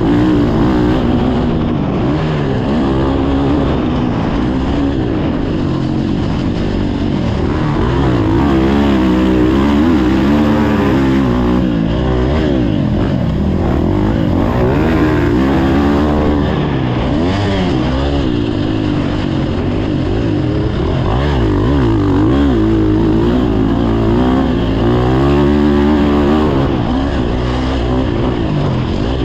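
Motocross dirt bike engines revving, their pitch rising and falling constantly as the throttle opens and closes, with more than one engine heard at once.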